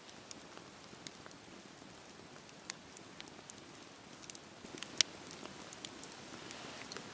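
Campfire burning with a steady crackle and scattered sharp pops, the loudest about five seconds in, and a short rise in hissing near the end.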